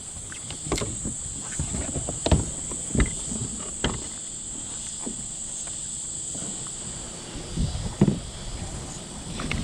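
Steady high-pitched insect buzz throughout, with irregular sharp knocks, the loudest about two, three and eight seconds in.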